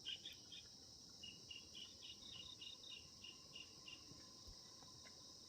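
Faint, steady high chirring, as of insects, with a run of short high chirps repeating a few times a second over the first four seconds.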